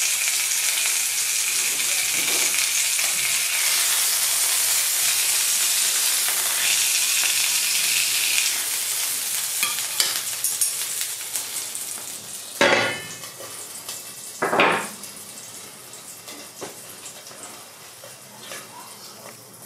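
Meat sizzling loudly in a hot ridged grill pan; the sizzle dies down after about ten seconds as the meat is lifted out, and two loud knocks come about two seconds apart.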